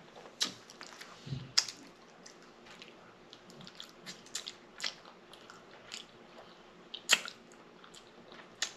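A person eating close to the microphone: chewing and biting with scattered wet mouth clicks and sharp snaps, the loudest snap about seven seconds in.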